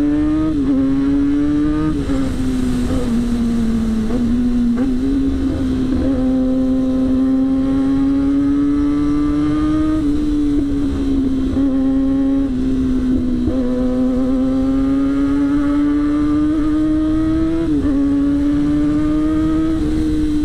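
Yamaha R6's 600 cc inline-four engine running hard under way. Its steady high note climbs slowly and dips abruptly several times, over a constant rumble of wind noise.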